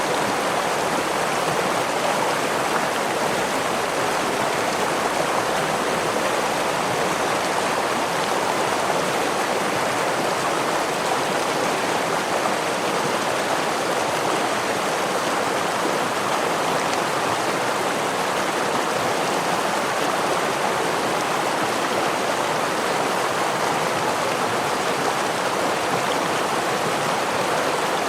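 Water rushing steadily in a forest stream or small waterfall, an even, unbroken splashing with no separate drips or pauses.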